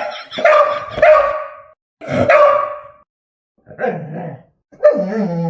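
English Springer Spaniel barking, several drawn-out barks with short silent gaps between them. They are alert barks, which the owner voices as "someone's here".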